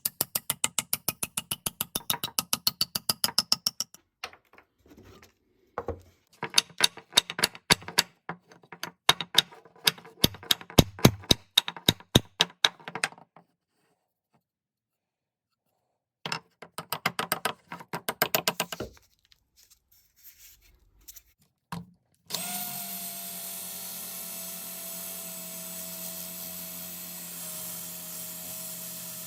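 Workshop tool work: three bursts of quick repeated strokes, the first rising in pitch, then a steady power-tool whir starting about 22 seconds in.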